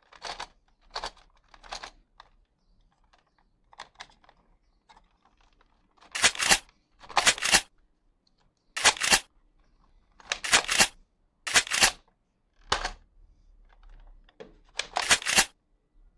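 Toy gun clicking and snapping in a series of short, sharp bursts: a few faint ones at first, then louder ones from about six seconds in, some in quick doubles.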